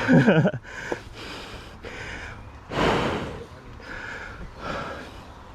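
A man breathing hard and panting from exertion, with a short voiced grunt at the start and a loud gasping exhale about three seconds in.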